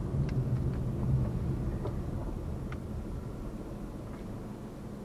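Low road and engine rumble heard from inside a moving car's cabin, easing off gradually as the car slows, with a few faint clicks.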